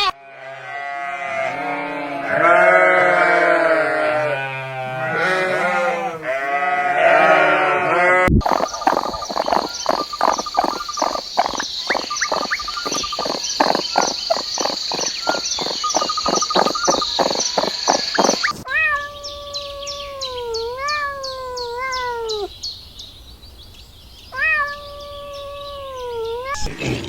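Animal calls in three separate runs: first a dense chorus of many overlapping calls, then a fast run of clicking pulses over a high steady tone, then a few single drawn-out calls whose pitch wavers and falls.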